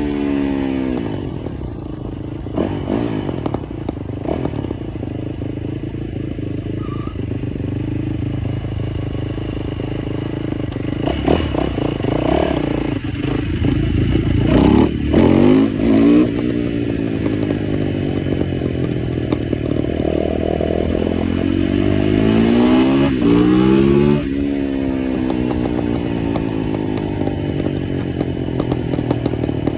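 Small motorbike engine riding and revving up and down repeatedly, with loud rev bursts about halfway through and a long rev that climbs, then falls away near the end.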